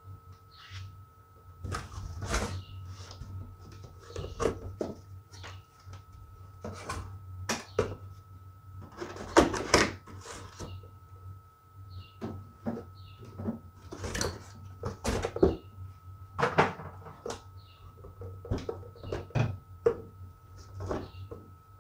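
A cardboard box being opened and a pressure washer's packaging and parts handled: irregular rustling, scraping and knocks, loudest about halfway through. A steady low hum runs underneath.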